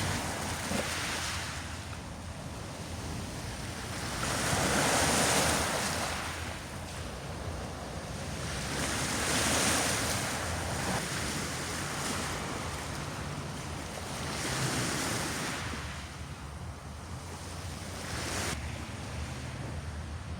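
Sea waves washing onto a pebble beach, each one rising and falling away every few seconds.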